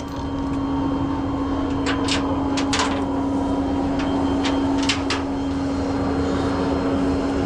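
Tow truck running with a steady hum and low rumble, with a handful of sharp metallic clicks and clanks about two to five seconds in.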